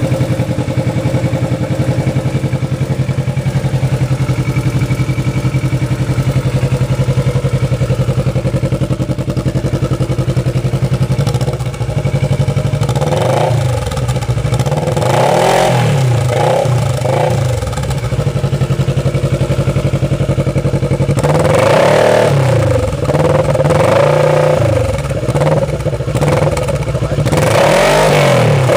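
Kawasaki ER-6n's parallel-twin engine running through a Hurricane Evolution aftermarket exhaust. It idles steadily for about ten seconds, then is revved in a series of quick blips, each rising and falling in pitch.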